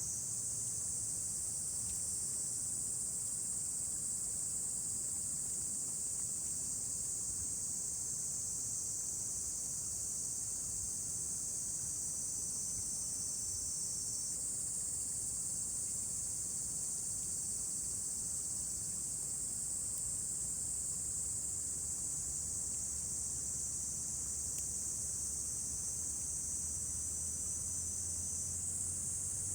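A chorus of insects making a continuous, high-pitched shrill buzz that holds steady throughout, over a faint low hum.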